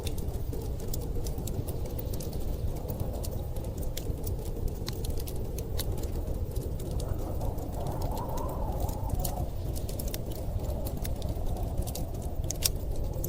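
Wood fire crackling and popping in a fireplace, sharp irregular snaps over a steady low rumble of storm wind that swells briefly about eight seconds in.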